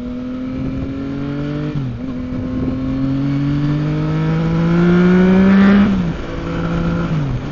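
Motorcycle engine accelerating through the gears, its pitch climbing and then dropping sharply at each upshift, about two seconds in, near six seconds, and again near the end. It is loudest just before the second shift, over steady wind and road noise.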